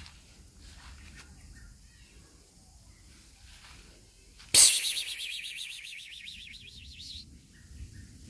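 A bird calling: a high, rapidly warbling trill that starts suddenly and loudly about four and a half seconds in and fades away over two to three seconds.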